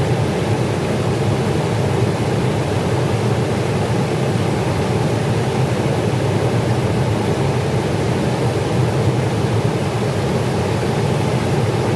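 River water rushing steadily: a loud, even roar with no breaks.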